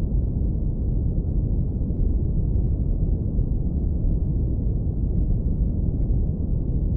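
Steady deep brown noise, filtered so that only a low rumble is left, with no change in level.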